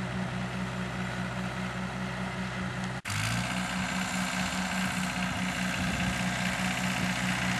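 Tractor engine running steadily under load while pulling a plow through the soil, with a regular pulsing beat. The sound cuts out for an instant about three seconds in.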